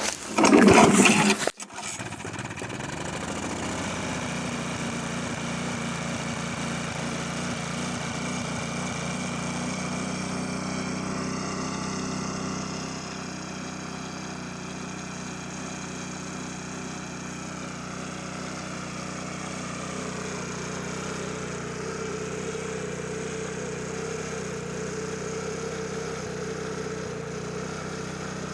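Small petrol lawn mower engine pulled on the starter cord with a loud rasp, catching about two seconds in and then running steadily, its speed settling slightly lower about halfway through. It is running without its blade fitted.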